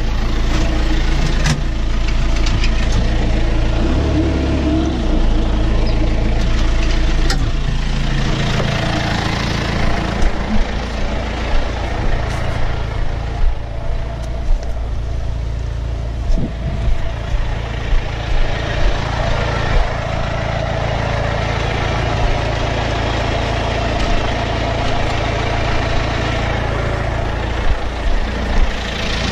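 John Deere tractor's diesel engine running steadily, with repeated short knocks and rattles over it.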